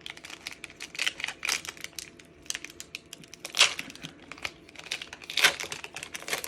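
Crinkly foil wrapper of a Pokémon booster pack being handled and torn open: a run of small crackles, with two louder crackles about three and a half and five and a half seconds in.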